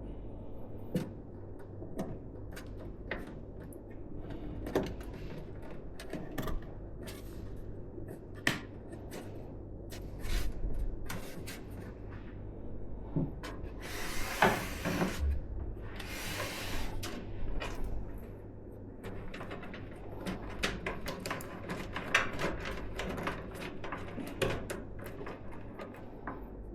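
Hands working on PC parts: scattered sharp clicks and taps of plastic and metal, with two short rustling, scraping bursts near the middle.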